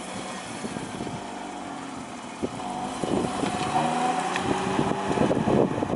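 Mazda Xedos 6 car engine idling steadily, then revved from about two and a half seconds in, its note rising and growing louder.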